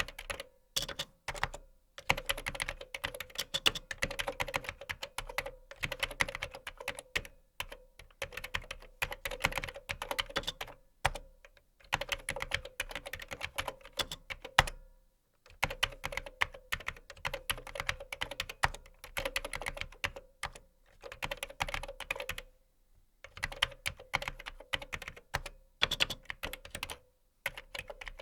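Typing on a computer keyboard: rapid runs of key clicks in bursts of a few seconds, with brief pauses between them.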